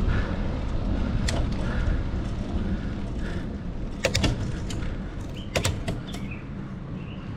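Wind rushing over the microphone and the low rumble of a bicycle rolling along a paved trail, with a few sharp clicks and rattles, one about a second in and small clusters about four and five and a half seconds in.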